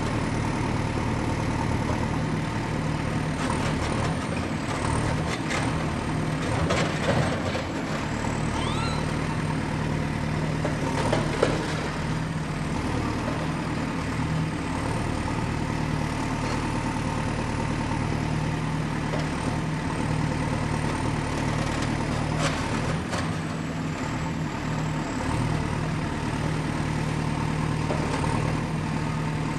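Excavator's diesel engine running steadily with a deep, even hum and a faint high whine, with scattered clanks and knocks of the machine at work, the sharpest about 11 seconds in.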